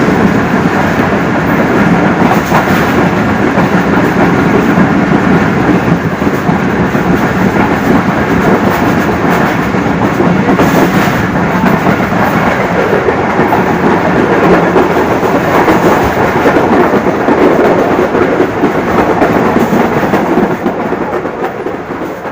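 Pakistan Railways 103 Up Subak Kharam express train running past at speed without stopping: a loud, steady rush of coaches and wheels on the rails, dying away near the end.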